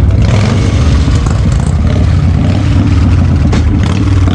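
Motorcycle engines running together in loud street traffic, with a sharp crack about three and a half seconds in.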